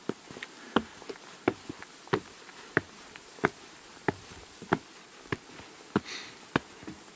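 Footsteps of a hiker walking at a steady pace, about three steps every two seconds.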